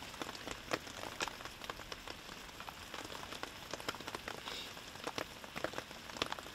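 Rain pattering, with a steady hiss and many irregular sharp drop ticks.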